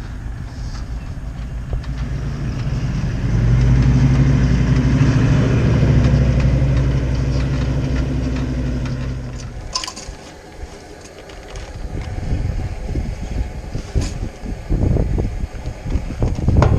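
A vehicle engine running close by with a steady low hum, building about three seconds in and falling away about ten seconds in. After it, wind noise and a few knocks.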